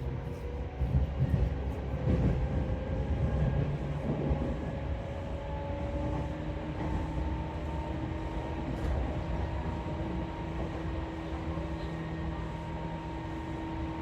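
Seibu 4000 series electric train running, heard from inside the car: a steady low rumble with a few heavier knocks in the first few seconds, and a motor whine whose pitch slowly rises as the train picks up speed.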